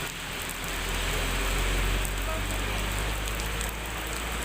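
Heavy rain pouring steadily, with a low rumble underneath that is strongest in the first couple of seconds.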